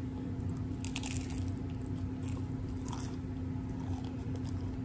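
A person biting into and chewing a crunchy hard taco shell, with crisp crunches about a second in and a few more later. A steady low hum runs underneath.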